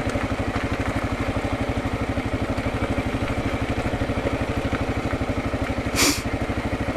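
2022 Kawasaki KLR650's single-cylinder engine idling with a steady, even pulse. A short hiss about six seconds in.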